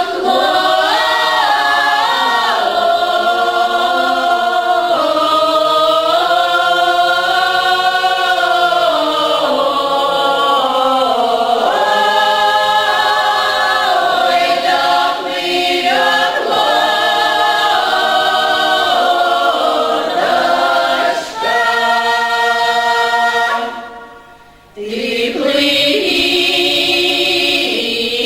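Folk song ensemble singing a Russian folk song a cappella, several voices holding long, sustained notes together. There is a short break near the end before the singing resumes.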